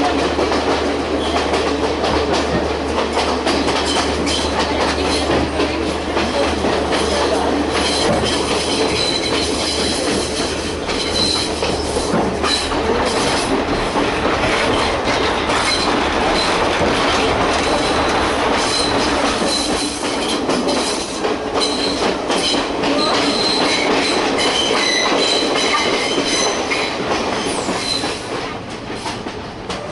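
Passenger train running along the track, heard from inside a carriage: a steady rumble with wheels clacking over the rail joints and thin, high-pitched wheel squeal on and off.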